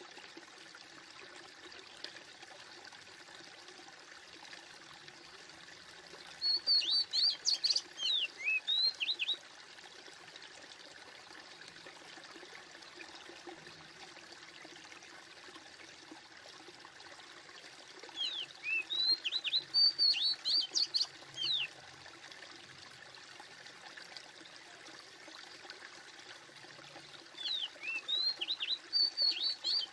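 A songbird singing three bursts of rapid, high, falling chirps, each about three seconds long and about ten seconds apart, over a steady faint background hiss.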